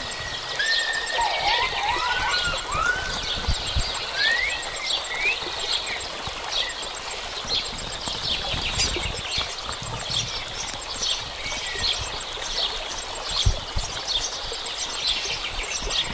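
Outdoor forest ambience full of quick, high bird chirps, with a few short rising-and-falling calls in the first few seconds and a few low thumps.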